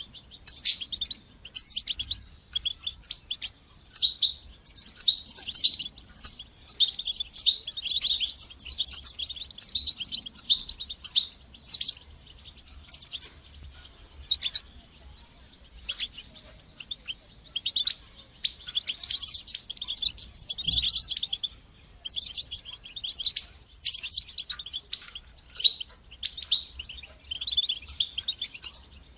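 European goldfinch singing: runs of rapid, high twittering and chattering notes in phrases a second or two long, separated by short pauses.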